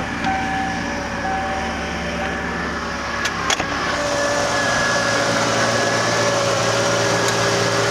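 Turbocharged four-cylinder engine idling, with a short repeating door-chime tone in the first couple of seconds. About three and a half seconds in come two sharp clicks, and the running hum changes and grows slightly louder as the air-conditioning compressor clutch clicks on. The compressor is clicking on and off, which the owner puts down to the system needing a recharge or a new compressor.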